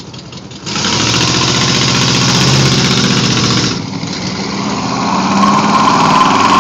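Car engine revving hard as a car launches down the street, coming in suddenly about a second in, easing off briefly around four seconds, then building again with a high tyre squeal setting in near the end.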